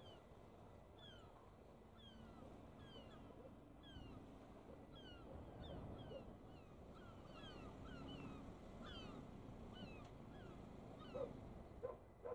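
A bird calling over and over in short falling chirps, about two a second, over low, steady background noise; two louder, lower calls come near the end.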